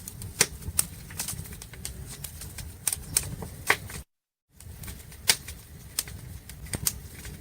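Wood fire crackling: irregular sharp pops and snaps over a low rumble, cut by a brief dropout about four seconds in.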